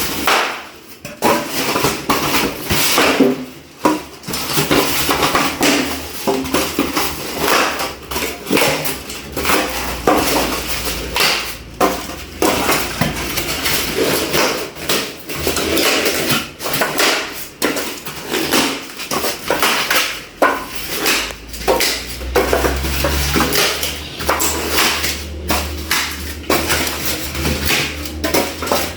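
Expanded polystyrene (styrofoam) being broken and crumbled, a dense, unbroken run of cracks and snaps, with a low rumble from handling joining in partway through.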